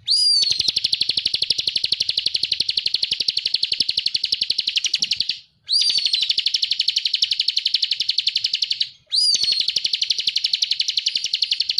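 Bar-winged prinia (ciblek kristal) singing loudly. It gives three long phrases, each opening with a short slurred whistle that runs into a rapid, even trill, with brief pauses about five and nine seconds in.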